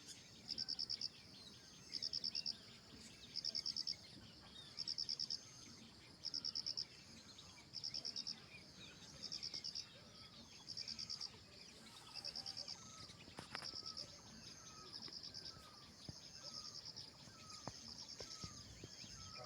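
Outdoor chorus of chirping wildlife. A high, fast-pulsed chirp repeats in short bursts about every second and a half and stops about two-thirds of the way through, over fainter bird chirps.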